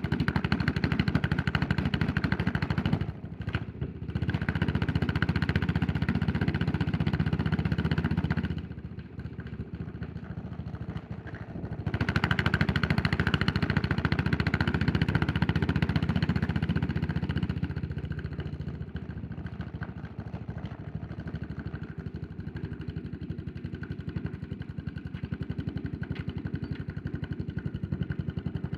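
Yamaha SR400's single-cylinder four-stroke engine running under way, its firing pulses heard throughout. It pulls hard with a brief drop about three seconds in, eases off from about 8 to 12 seconds, pulls again, then settles to a quieter steady run for the last ten seconds.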